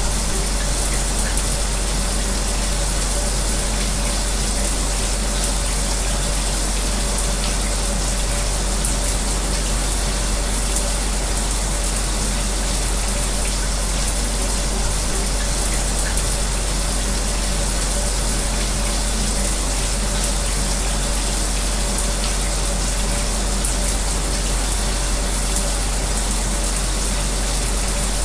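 Shower spray running steadily, mixed with the even whir of an electric fan carrying a faint steady hum; an unbroken white-noise bed with no change.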